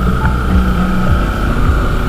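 Bajaj Pulsar NS200's single-cylinder engine running steadily under way, with wind noise.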